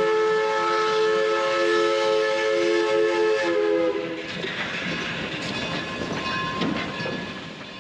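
Chime whistle of steam locomotive No. 482, a narrow-gauge 2-8-2, blowing one long chord of several notes. It sags slightly in pitch and cuts off about four seconds in. A quieter rush of steam and a low rumble from the engine follow.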